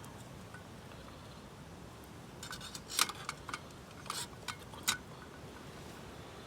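Camping gear being handled: a run of sharp clicks and light clinks about two and a half to five seconds in, the loudest about three seconds in, over a faint steady hiss.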